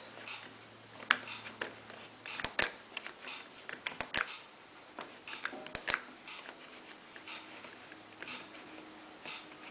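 Sharp clicks from pressing the control-panel buttons of a Miele PW6055 Plus washing machine to step through its wash programmes, several coming in quick pairs, over a faint steady low hum.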